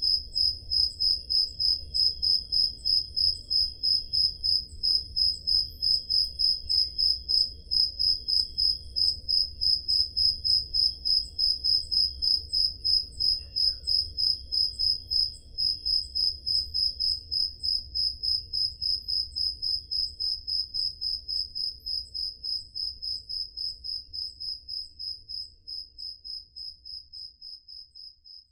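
A cricket chirping steadily in an even rhythm of about three high-pitched chirps a second, with other crickets fainter behind it. The sound fades out over the last few seconds.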